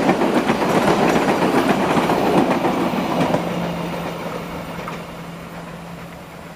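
Train passing, its wheels clattering on the rails, loud for about three seconds and then fading away as it moves off, with a steady low hum under the fading noise.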